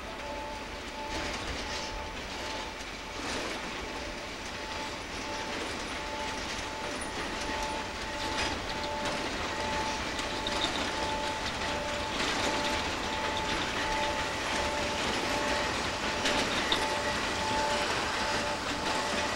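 A freight train of two-axle Wam 80000 boxcars rolling slowly by during shunting, with wheels clattering over the rail joints; it grows louder from about two-thirds of the way in. A two-tone electronic signal beeps steadily, in even pulses, the whole time.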